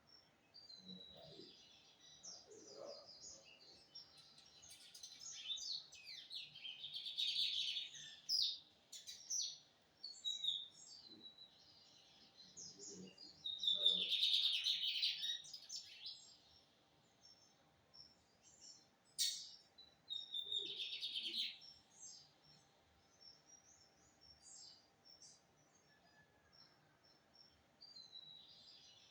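Lined seedeater (bigodinho) singing: three main bursts of rapid, high-pitched song phrases with quieter spells between them.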